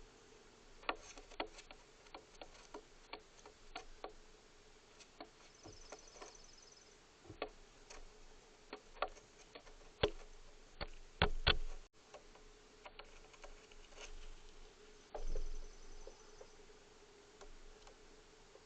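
Irregular sharp taps and clicks of feeding at a wildlife feeder, with a louder run of knocks near the middle. A faint high, rapid trill comes twice.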